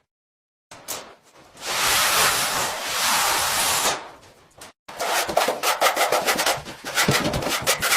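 A steady hiss lasting about two seconds, then, after an abrupt cut, a rapid run of short scraping or rubbing strokes.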